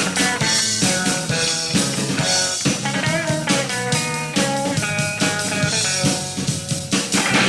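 Hardcore punk band playing an instrumental passage: distorted electric guitars and bass over a drum kit, with no vocals.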